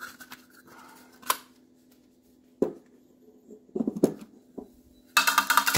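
An empty wire spool being taken out of a MIG welder: a few sharp clicks and knocks of metal and plastic parts, then a loud, rough rattling near the end.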